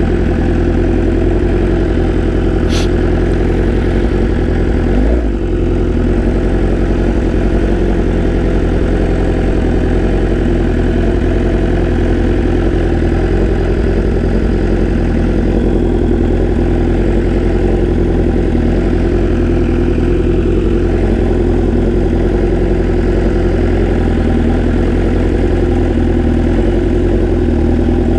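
BMW S1000RR's inline-four engine running at low, steady revs, with a brief dip and change in engine pitch about five seconds in.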